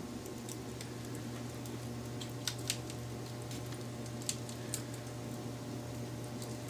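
Wood fire crackling softly, with a few sharp pops and snaps about halfway through, over a steady low hum.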